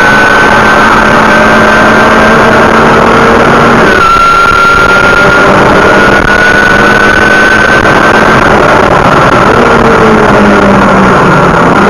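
A BMW's engine pulling hard on a racetrack straight, heard inside the car. It climbs steadily in pitch, drops suddenly at an upshift about four seconds in, climbs again, then falls away near the end as the car slows. Wind and road noise run throughout.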